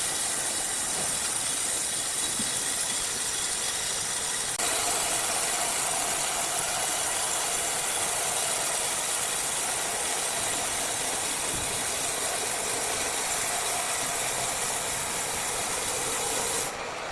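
Large sawmill wood saw running, a steady hissing mechanical noise that grows a little fuller about four and a half seconds in.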